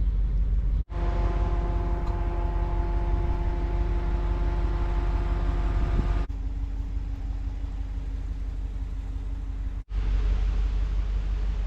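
Ram 2500 Power Wagon pickup truck driving: steady low road and engine rumble, with a steady whine over it for the first half. It comes in three short stretches, each broken off by an abrupt cut.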